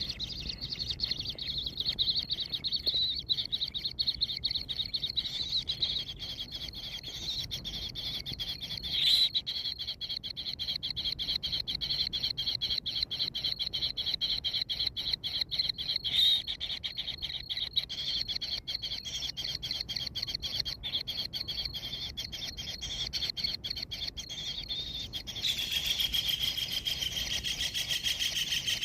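Kingfisher chick calling in a rapid, continuous chirring trill, with two louder single calls about nine and sixteen seconds in. Near the end the trill turns louder and higher.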